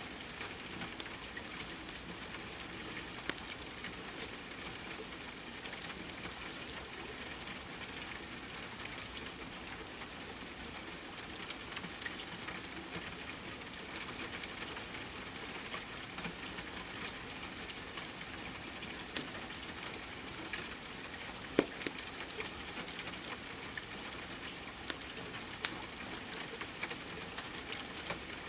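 Steady rain mixed with a wood fire crackling: an even hiss dotted with scattered sharp pops. One louder pop comes about three-quarters of the way through.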